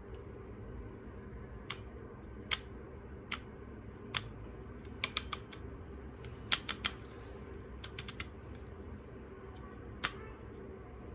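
Irregular sharp clicks and taps of hard parts of a manual coffee grinder being handled, some coming in quick runs of three or four, over a steady low hum.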